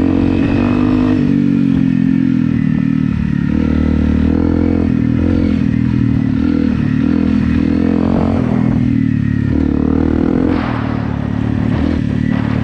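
Honda CRF250 Rally's single-cylinder engine running while the bike is ridden, its pitch rising and dipping with the throttle, easing off briefly about ten and a half seconds in.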